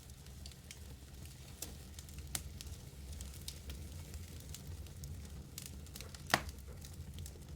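Wood fire burning in a fireplace: logs crackling with scattered sharp pops over a steady low rumble of flame, the loudest pop about six seconds in.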